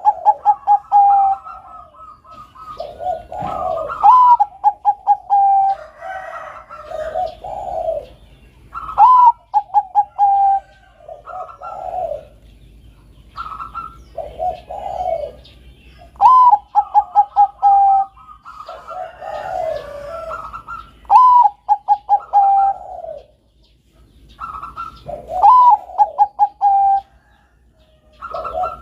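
A Bangkok-type perkutut (zebra dove) sings its cooing song in repeated phrases about every four to five seconds. Each phrase is a rising note followed by a quick run of short pulsing coos, with lower coos between the phrases.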